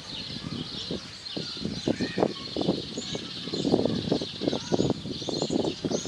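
Birds calling in a tree: a dense, irregular run of short, lower notes, loudest a little past the middle, with thin high chirps above.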